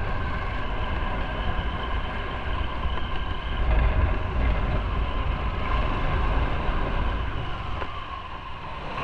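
Motorcycle running at a steady cruise, its engine drone mixed with wind rumbling on the microphone; it eases off a little about eight seconds in.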